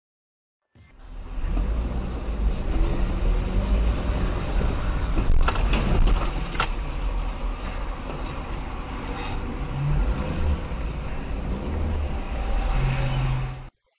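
Road vehicle driving noise: a heavy low engine and road rumble, with a few sharp knocks about halfway through. It starts about a second in and cuts off abruptly near the end.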